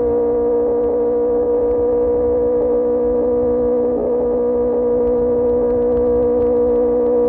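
QJMotor SRK600 inline-four with an Austin Racing GP1R exhaust, cruising at steady revs: a loud, even engine note holding one pitch, with a brief wobble about four seconds in, over a low rumble of wind and road noise.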